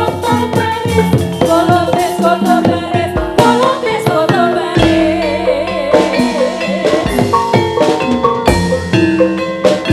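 Live Jathilan music played loud through a sound system: struck metal-keyed instruments holding steady notes over regular drum strokes, with a singer's wavering melodic line through the middle.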